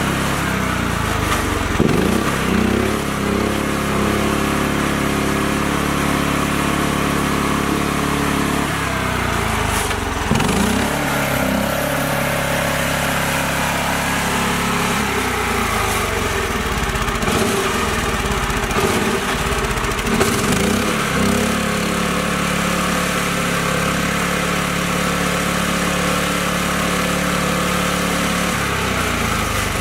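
Mini tractor engine running steadily, with its pitch dipping and swinging a few times as the revs change, about two seconds in, near the middle and about two-thirds of the way through.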